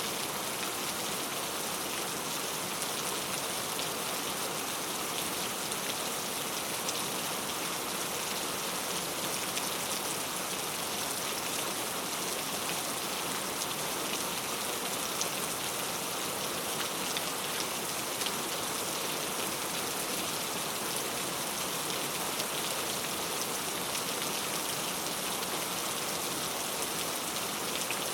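Steady rain falling, an even hiss of many drops with light pattering on a surface.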